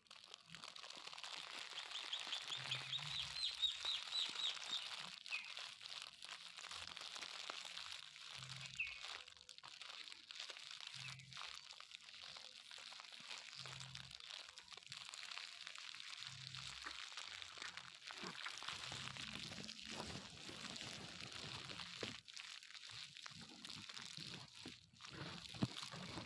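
Birds chirping outdoors, with a rapid run of high chirps a few seconds in, over a steady high hiss and frequent crackling, crunching clicks.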